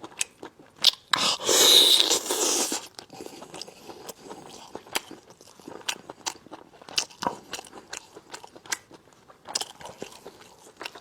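Close-miked chewing and crunching on braised lamb chops, with many sharp crunching clicks as gristle and cartilage break between the teeth. A longer, louder rasping crunch comes about a second in and lasts a second and a half.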